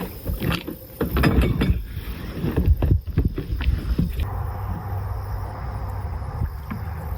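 Knocks and bumps of handling for the first few seconds, then a steady hum of a small electric trolling motor pushing a kayak on its lowest speed setting, starting abruptly about four seconds in.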